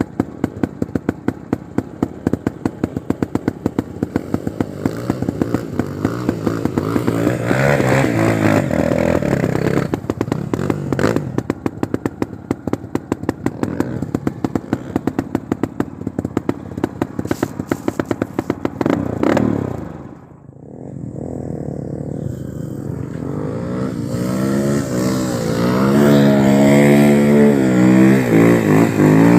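Single-cylinder four-stroke trail motorcycle riding a dirt trail, its engine running under a rapid clatter of knocks. The engine drops off briefly about two-thirds of the way through, then revs up and down, rising and falling in pitch, near the end.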